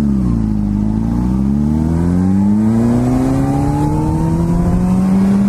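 Sport motorcycle engine accelerating in one gear: its pitch dips briefly at the start, then climbs smoothly and steadily for about five seconds.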